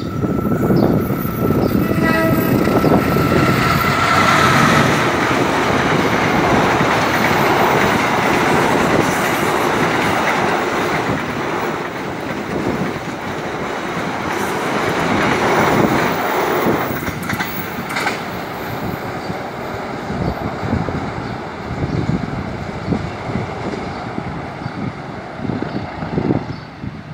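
A locomotive-hauled passenger train passing close by. The locomotive's horn sounds for the first few seconds as it approaches. Then comes the loud rumble and clatter of the engine and wheels on the rails as the carriages go by, fading away near the end.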